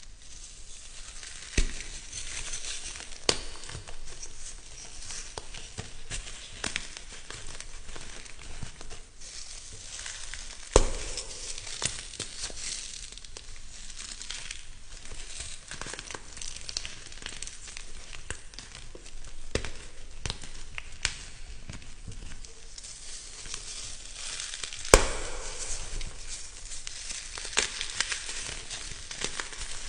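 Something crisp being crushed and crumbled close up: continuous fine crunching and crackling, broken by a few sharp, louder snaps, the loudest near the end.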